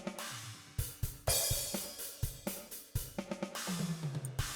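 DrumGizmo virtual drum kit playing a groove: kick and snare hits under a steady hi-hat, with cymbal crashes ringing out. The drums run through a plate reverb set to a very short decay.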